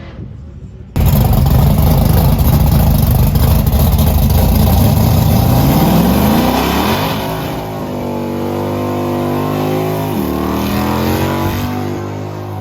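A car engine revving hard. It comes in suddenly about a second in, climbs in pitch, then holds high revs with a brief dip before easing off near the end.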